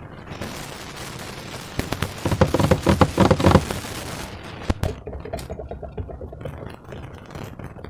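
Slime being squeezed and worked by hand: a dense run of wet crackles and pops, heaviest about two to three and a half seconds in, with a single sharp snap near the five-second mark.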